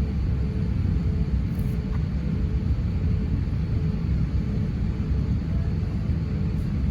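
Steady low rumble of an Airbus A350-900 airliner, with a faint hum running through it.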